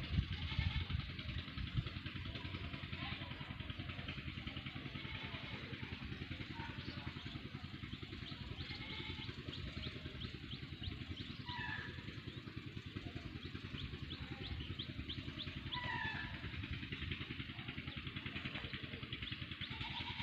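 A small engine running steadily with a fast, even pulse, with a few short chirps over it.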